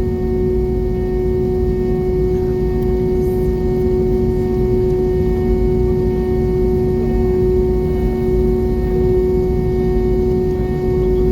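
Steady cabin noise inside an Airbus A320 airliner: a constant low rumble with a steady droning hum from the jet engines.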